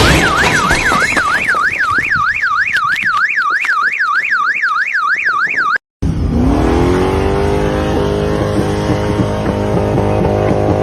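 An electronic siren warbling rapidly up and down, about three to four sweeps a second, which cuts off suddenly. After a brief gap a vehicle engine revs up and runs steadily.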